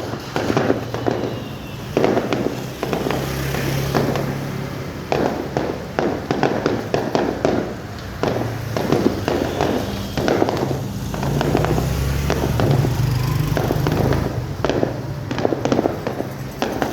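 Aerial fireworks display: shells bursting in quick succession, several bangs a second with crackling tails, going on without a break.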